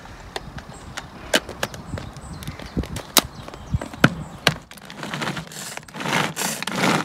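Irregular sharp knocks of a knife chopping on a wooden board, then about two seconds of louder rushing, sizzling-like noise near the end.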